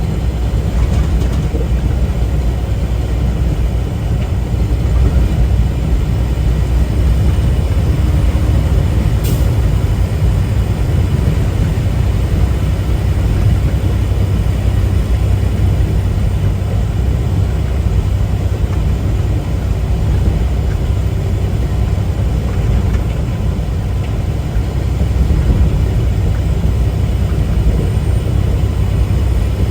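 Semi truck on the move, heard from inside the cab: a steady low diesel engine drone with road noise. A single short click comes about nine seconds in.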